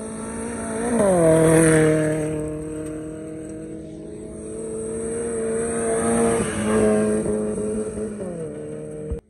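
Maruti Gypsy rally jeeps driving past under throttle, twice. Each engine swells loud as it goes by and its note drops in pitch, the first about a second in and the second around six to seven seconds. The sound cuts off suddenly near the end.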